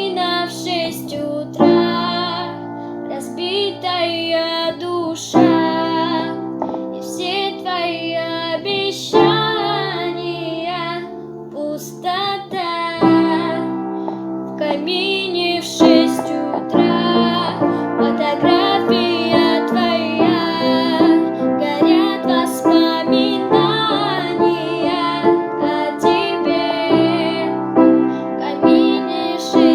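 A female voice singing a Russian pop song over a keyboard or piano backing track.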